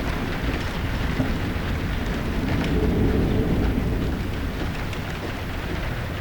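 Stormy weather: a steady rush of heavy rain and wind with a deep rumble underneath, swelling a little about halfway through.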